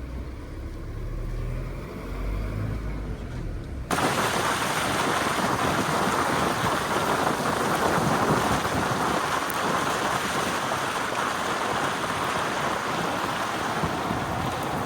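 Low rumble of a car on the road, then about four seconds in a sudden cut to steady heavy rain, a dense, even hiss with a low rumble under it.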